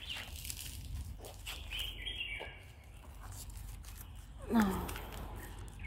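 A bird chirps briefly about two seconds in, over a steady low outdoor rumble. Near the end, a person lets out a short falling murmur.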